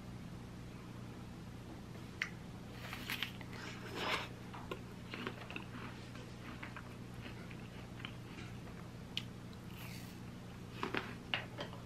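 Crisp apple slices being bitten and chewed, with crunching crackles coming in clusters about three to four seconds in and again near the end. A low steady hum runs underneath.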